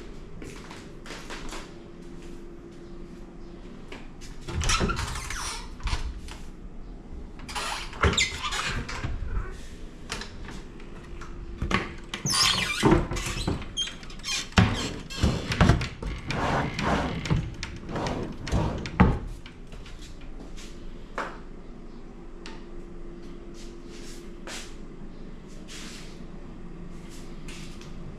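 Irregular knocks, clicks and squeaks, thickest in the middle of the stretch, over a steady low hum.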